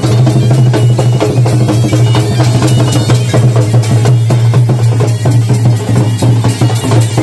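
Loud, fast drumming with other instruments over a steady low drone, the rapid strokes running without a break.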